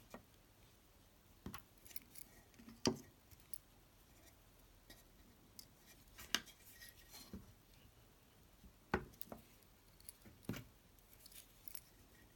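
Irregular small clicks and taps of tools and small parts being handled at close range, with the sharpest knocks about three, six and a half, and nine seconds in.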